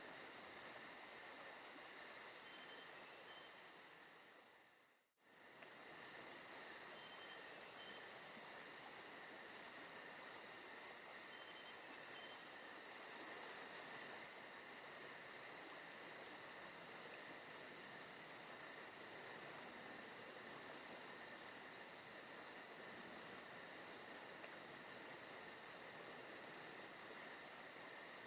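Crickets chirring steadily in a forest ambience recording, a continuous high trilling with a fast pulse. About five seconds in it fades out almost completely and comes straight back.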